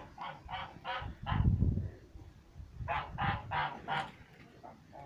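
Domestic geese honking in two runs of about four short honks each. A low rumble comes between them.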